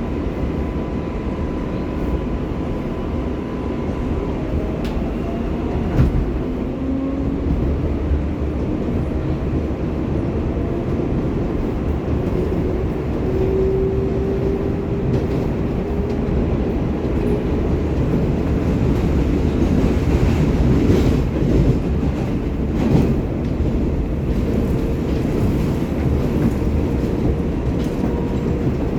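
R188 subway car running between stations, heard from inside the car: a steady rumble of wheels on rail, with the traction motors' whine rising in pitch for several seconds as the train gathers speed. A few sharp knocks from the wheels over rail joints come about six seconds in and again later.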